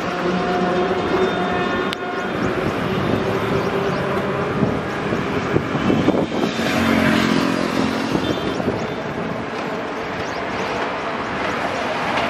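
An approaching passenger train hauled by a WAP-7 electric locomotive, rolling over the rails and crossover points with a steady noise, a few faint tones running through it and a single sharp click about two seconds in.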